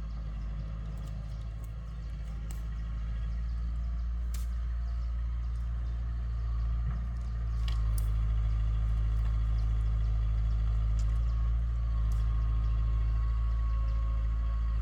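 Heavy engine running steadily with a low rumble that grows louder a few seconds in and again about halfway, with scattered light clicks and rattles.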